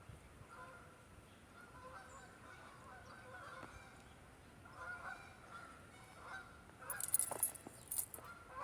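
Geese honking repeatedly, a run of short calls one after another. About seven seconds in, a louder burst of rustling noise.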